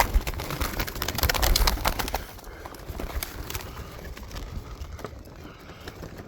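Pigeons cooing in a loft, with a dense run of clicks and knocks in the first two seconds before it goes quieter.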